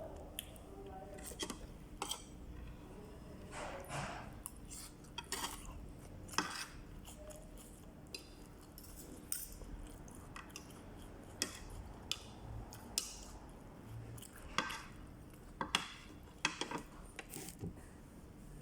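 A spoon clinking and scraping against a bowl of soup as it is eaten, in scattered, irregular clinks.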